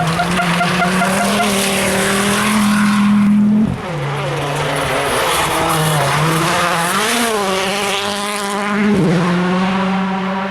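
Turbocharged World Rally Car engine at high revs. The note drops suddenly about three and a half seconds in, then climbs and falls several times as the car changes gear and lifts and accelerates through the stage.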